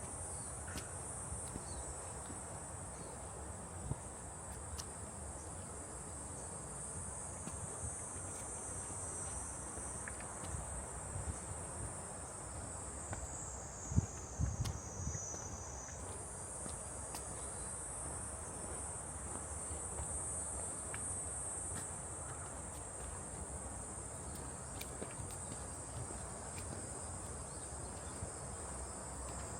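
Insects, most likely cicadas, keep up a steady high-pitched buzzing chorus. About halfway through it drops lower in pitch for a few seconds, then jumps back up. A few soft thumps, the loudest near the middle, come through underneath.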